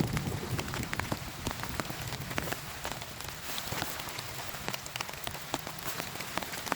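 Heavy rain falling, with many separate drops striking a surface close by as sharp taps over a steady hiss. A thunder rumble is dying away at the very start.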